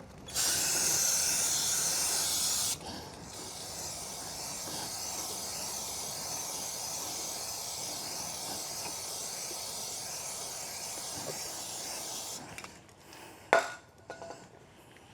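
Aerosol can of chain cleaner spraying onto a motorcycle chain: a loud hiss for about two and a half seconds, then a softer steady hiss for about ten seconds more. A single sharp knock near the end.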